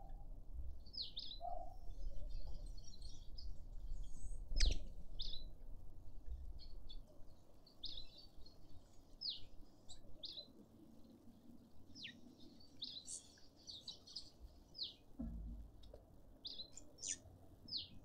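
Small garden birds chirping: short, high, quickly falling chirps repeated irregularly, with one sharp click about four and a half seconds in.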